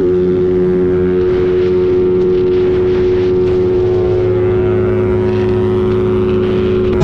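Suzuki motorcycle engine running at a steady cruising speed, its note holding one pitch, with road and wind noise heard from the rider's seat.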